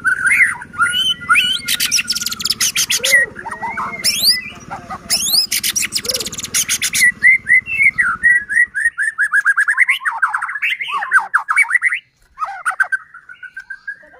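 White-rumped shama (murai batu) singing in full voice. Its varied song mixes clear whistled notes with fast dry rattling 'kretekan' passages, which come twice in the first half, and ends with quick runs of repeated notes.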